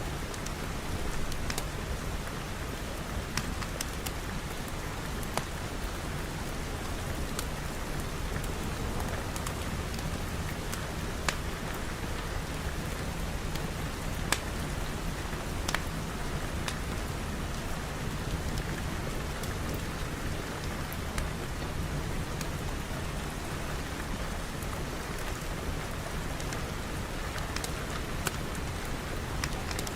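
Steady rain falling, an even hiss with scattered sharp clicks of drops striking.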